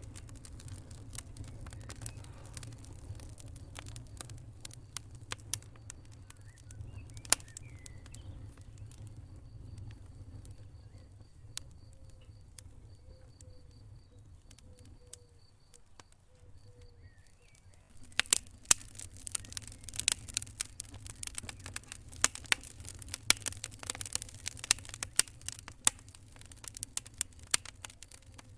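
Wood fire crackling in a fireplace over a low steady rumble, with scattered pops at first and then a dense run of louder crackles about two-thirds of the way in.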